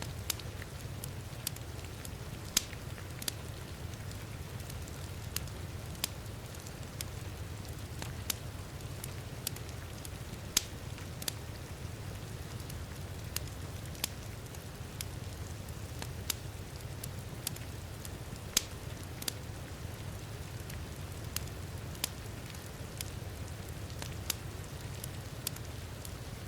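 Wood fire crackling in a fireplace, with sharp irregular pops every second or so over a steady low rumble, mixed with the soft hiss of rain.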